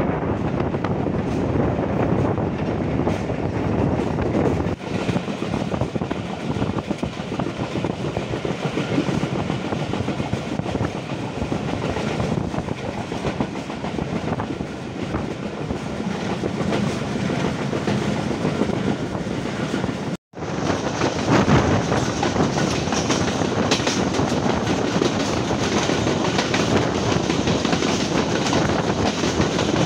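Passenger train running along the track, heard from aboard a coach: a steady rumble of wheels on the rails. The sound drops out for a moment about two-thirds of the way through, then carries on.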